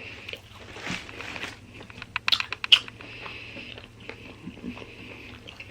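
Close-up eating sounds: a person biting and chewing a Publix Philly cheesesteak sub, with a cluster of sharp crunchy clicks a little over two seconds in.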